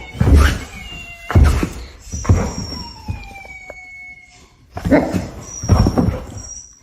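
A pet animal calling out loudly in about five bursts, two close together near the start, one in the middle and two more near the end.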